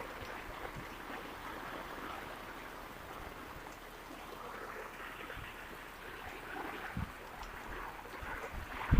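Steady heavy rain falling, an even hiss, with one short knock about seven seconds in.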